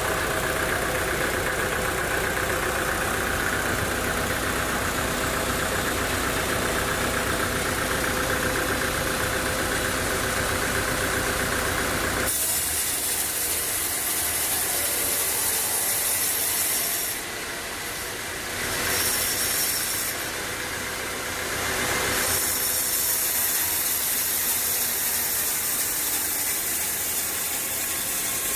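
Sawmill machinery running: an engine running steadily with a constant hum. About twelve seconds in, the sound switches abruptly to a mostly high-pitched hiss, which drops away twice briefly before returning.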